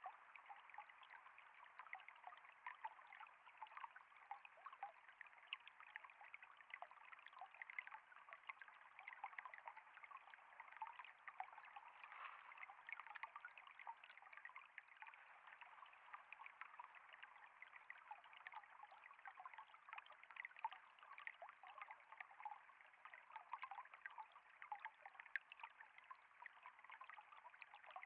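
Faint, steady trickling of flowing water, a continuous patter of small splashes and gurgles with no pauses.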